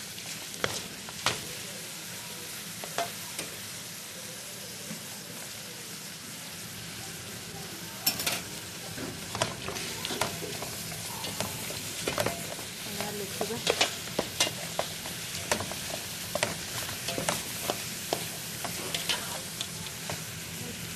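Okra sizzling as it sautés in hot oil in a pot, stirred with a utensil that scrapes and knocks against the pot. The scraping and knocking come more often after about eight seconds.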